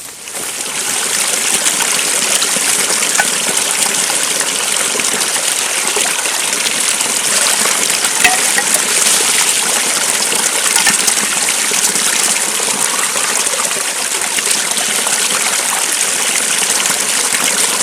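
Small forest stream running and gushing close by, a steady loud rush of water that swells up over the first second and then holds level.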